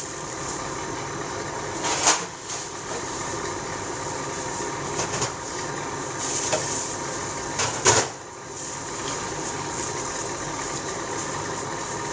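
A steady hum with a few sharp knocks, the loudest about two seconds in and again near eight seconds.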